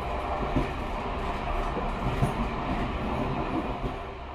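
A train running by, a steady rumble that fades out near the end.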